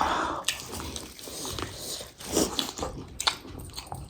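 Close-up eating sounds: biting and chewing food, with wet mouth sounds and scattered short clicks.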